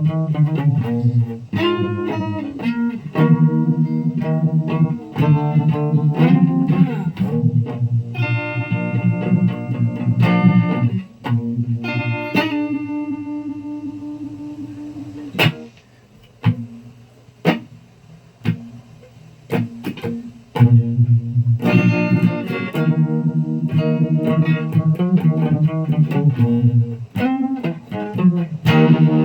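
Electric guitar played through effects pedals: strummed chords and picked riffs. About halfway through it thins to a few single plucked notes with gaps, then full playing picks up again.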